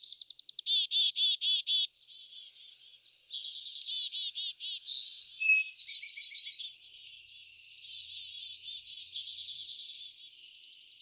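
Several songbirds singing, with fast trilled phrases of repeated high notes that overlap one another and a brief lull about two and a half seconds in.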